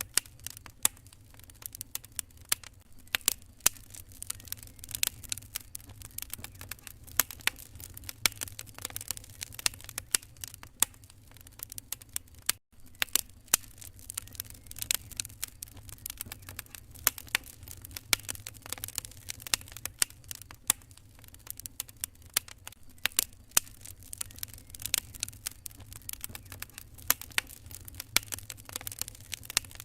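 Wood fire crackling in a fireplace: irregular sharp pops and snaps over a low steady rumble, with a split-second gap in the sound a little before halfway.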